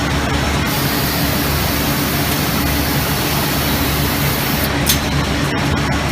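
Steady industrial machinery noise on a factory production line: a low hum with hiss over it. A higher hiss runs for about four seconds and then stops, and a short click follows about five seconds in.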